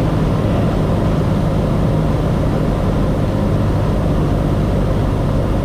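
Cessna 172S's four-cylinder Lycoming engine and propeller droning steadily in flight on approach.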